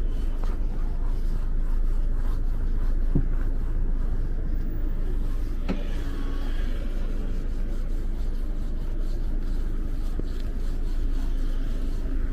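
Steady low rumble of a car engine running, with two short clicks about three and six seconds in.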